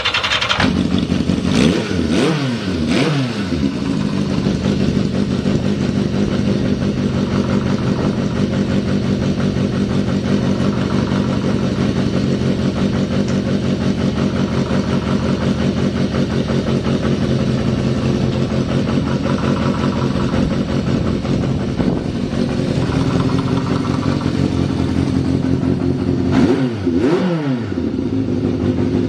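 Yamaha XJ550 inline-four motorcycle engine, just started, idling steadily with a few short throttle blips about two seconds in and again near the end. The idle is even, with no abnormal noise.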